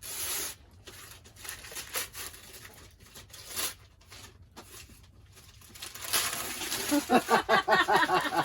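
Gift wrapping paper being torn and crinkled in a series of irregular rips as a present is unwrapped, with a voice in the last second or so.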